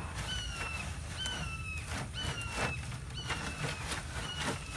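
A bird calling in a series of short, slightly falling calls, about one a second. Under the calls are repeated scratchy rasps from compost being worked through a sifting screen.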